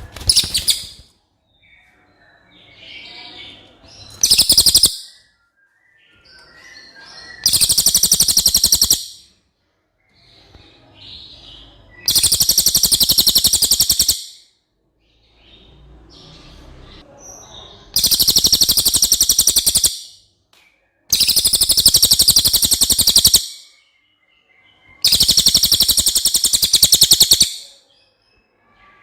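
Cililin songbird singing: six loud, fast, high trills of one to two seconds each, a few seconds apart, with softer twittering notes between them.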